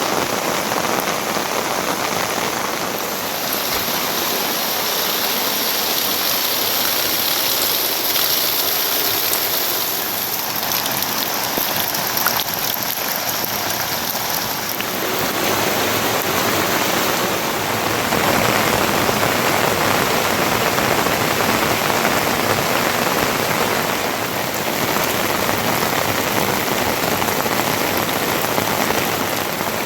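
Heavy rain falling steadily, a dense, even hiss that becomes fuller and deeper about halfway through.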